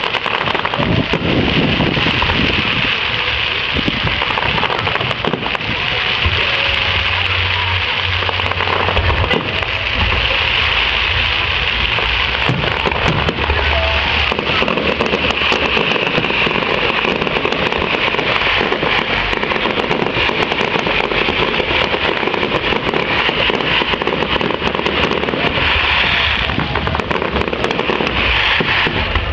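Fireworks crackling and popping in a dense, continuous stream of small sharp cracks.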